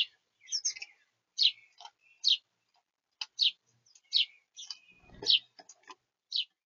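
Small birds chirping close to the microphone: about a dozen short, sharp chirps at irregular intervals, several of them quick downward sweeps. There is one low bump about five seconds in.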